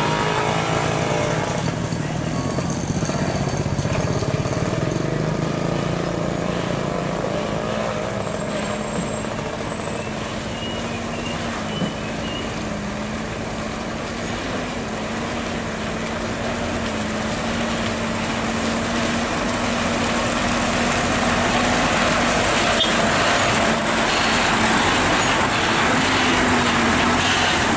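Heavy truck engine running with a steady low drone, while road noise grows louder over the last ten seconds as a vehicle comes closer.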